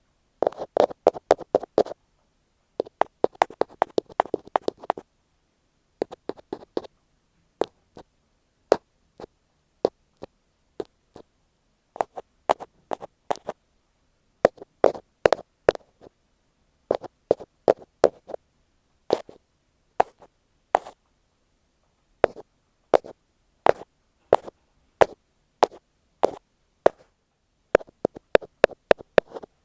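An ear pick tapping directly on an earphone microphone, as close-up ASMR tapping. The first few seconds hold quick flurries of taps; after that the taps come in small groups with short silent gaps between.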